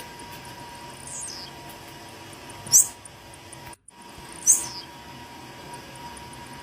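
Blue-black grassquit (tiziu) singing: three short, high notes that fall in pitch, about a second and a half apart, the second and third much louder. The sound cuts out completely for a moment between the loud notes, and a faint steady tone runs underneath.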